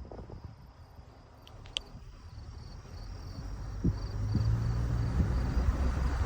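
Faint insects trilling in a steady pulsing rhythm, with one short high chirp nearly two seconds in. A low rumble builds up from about halfway and becomes the loudest sound.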